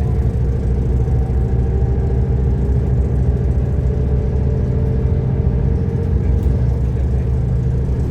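Diesel railcar engine of a KiHa 187 limited express running under power, heard from inside the car: a steady low rumble with engine tones that glide slowly in pitch.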